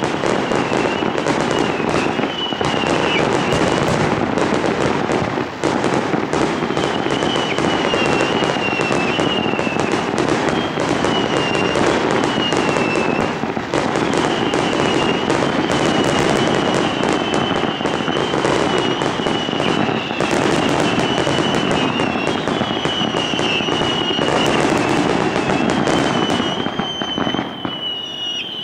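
Fireworks display in full barrage: a dense, unbroken run of bangs and crackling bursts that eases slightly near the end. A high, wavering whistle runs through it.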